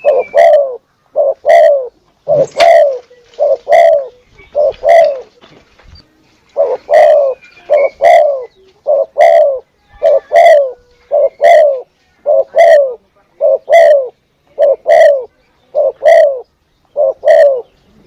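Spotted dove (tekukur) cooing: a long series of short, arched coos in close pairs, about one pair a second, with a brief pause about five and a half seconds in.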